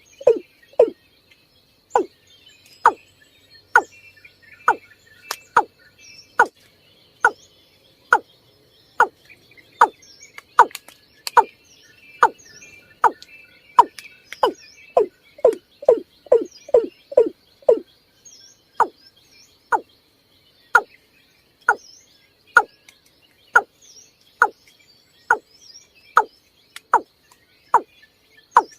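Water cock calling: a long series of short, deep, hollow notes, about one a second, that quicken to about two a second midway and then slow again. Faint higher chirps and a thin steady high tone sit beneath it.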